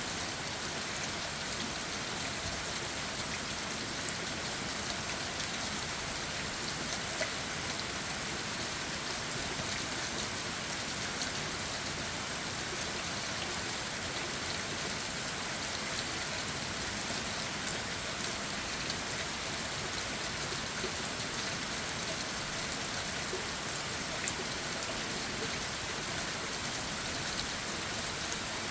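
Steady rain falling on leaves and the forest floor, a constant hiss with many small drop taps and now and then a louder drip.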